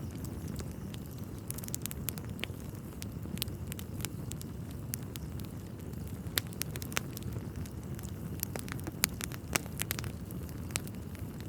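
Wood fire burning in a fireplace: a steady low rumble of flames under irregular crackles and sharp pops, a few of them louder.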